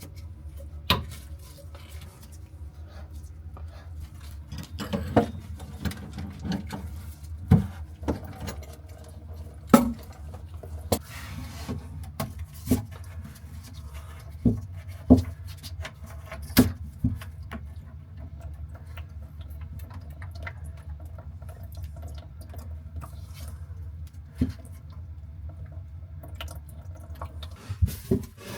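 Scattered knocks, clinks and scraping of hand tools and metal fittings being worked under a bathroom sink to take out an old faucet, over a steady low hum.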